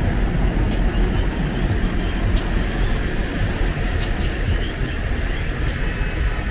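Loud, steady low rumble of city street noise, with faint scattered higher sounds over it.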